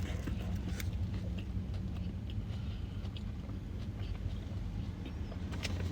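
Close-up chewing of a burger: soft wet mouth clicks and smacks, scattered and faint, over a steady low hum.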